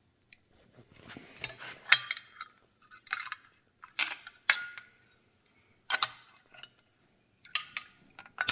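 Small metal engine parts and sheet-metal tinware being handled on a workbench: a run of irregular sharp clinks and knocks, some with a brief metallic ring.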